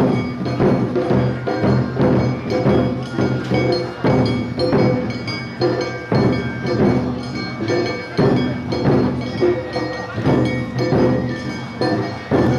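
Awa odori festival music from a marching narimono band: drums and bell-like gongs strike in a steady beat about twice a second, over sustained pitched instrument tones.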